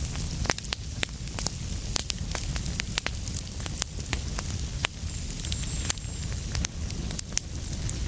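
Wood fire burning in a fireplace: irregular sharp crackles and pops, several a second, over a steady low rumble and a soft hiss.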